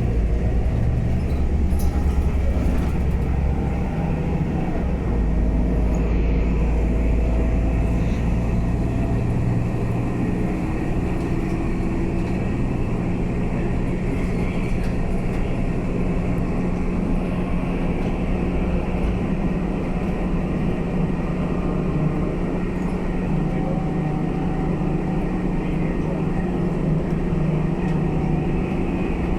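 Scania K320UA city bus under way: the engine runs under a heavy low rumble, its note rising and falling with speed.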